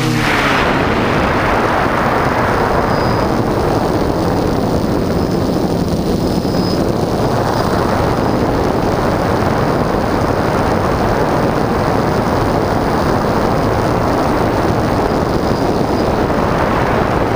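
Strong wind buffeting the GoPro's microphone on a flying quadcopter, a loud, steady rumbling rush, with a faint high motor whine underneath.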